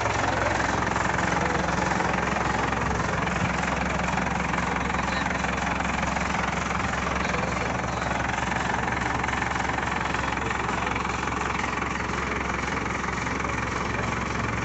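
Heavy vehicle's diesel engine idling steadily, an even low hum that holds without revving.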